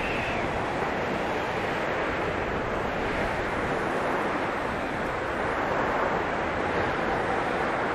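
Blizzard wind blowing steadily, an even rushing noise that swells slightly now and then.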